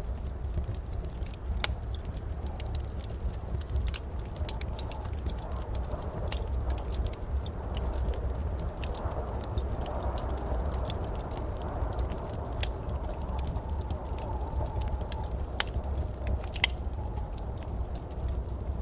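Wood fire in a fireplace crackling, with irregular sharp pops and snaps over a steady low rumble of the flames; two louder snaps come near the end.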